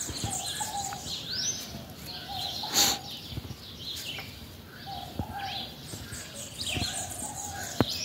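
Several small birds chirping and calling, with short rising whistles among them, over light outdoor background noise. A brief louder burst of noise comes about three seconds in.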